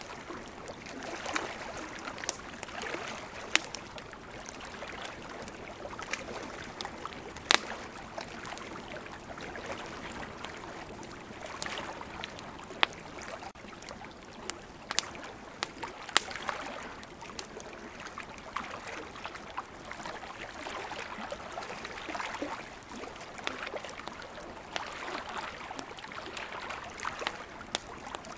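Wood campfire crackling, with frequent sharp pops (the loudest about seven and sixteen seconds in), over the rising and falling wash of ocean waves.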